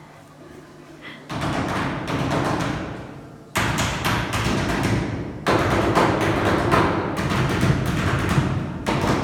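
Percussion number of knocking and thumping: dense runs of sharp knocks and thuds, the kind that many performers make striking together on stage. Each run starts suddenly and fades: the first about a second in, then near the middle, and again near the end.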